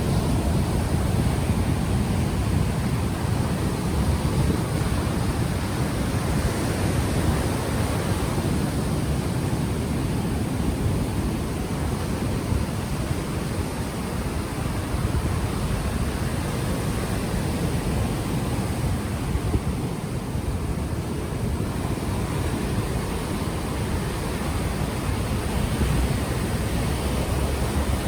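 Ocean waves washing onto the shore, a steady noisy rush heaviest in the low end, with wind buffeting the unshielded microphone.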